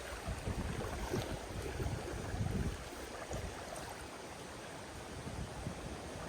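Strong wind gusting on the microphone, with water lapping at a lakeshore.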